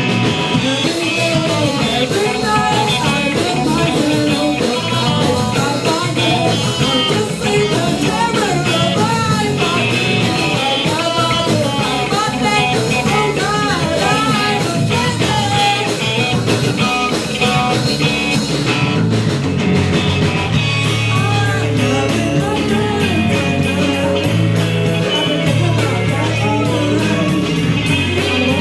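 Live rock band playing an encore song with electric guitar in drop D tuning, a voice singing over it. The second half settles into a steady, driving pulse.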